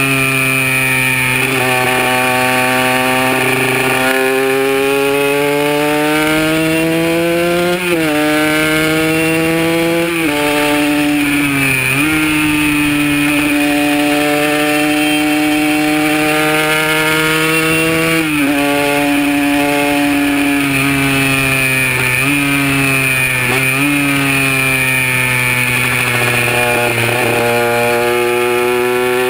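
Kawasaki KR150's single-cylinder two-stroke engine running hard under load, its buzzing pitch climbing and then dropping sharply at each of several gear changes.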